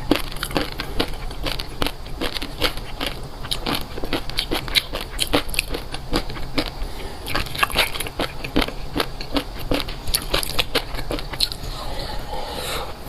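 Close-miked crunchy chewing: rapid crackling crunches of food being bitten and chewed, several a second.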